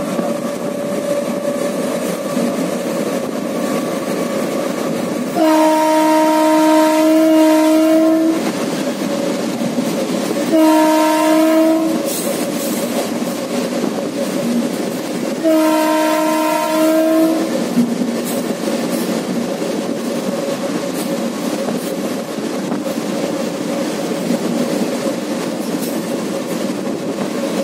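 Steady running noise and wheel clatter of a train moving at speed on the rails, with a train horn sounding three times, about six, eleven and sixteen seconds in: a long blast, a short one, then another long one.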